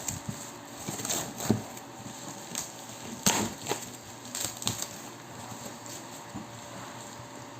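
Packaging being opened and handled: scattered crackles, rustles and clicks of plastic and cardboard, with a sharper crack a little over three seconds in.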